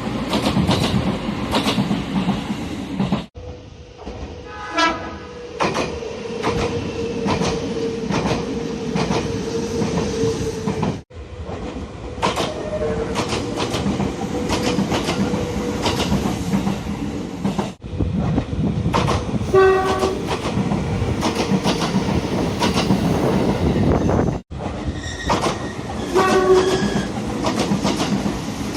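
Nagano Electric Railway express train running, with repeated clacks and the din of the train in motion, in several short clips that cut abruptly one to the next. A short horn blast sounds about five seconds in, again near twenty seconds, and once more near the end.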